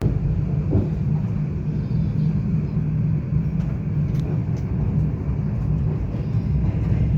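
Passenger train carriage running on the rails: a steady low rumble, with a few faint clicks.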